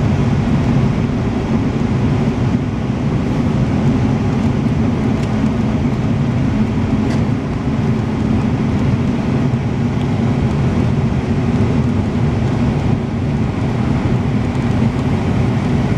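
Steady engine and road noise of a vehicle driving at an even speed.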